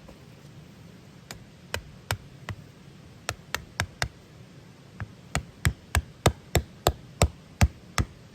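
Repeated hammer blows: a few spaced strikes, then a steady run of about three sharp strikes a second, growing louder near the end.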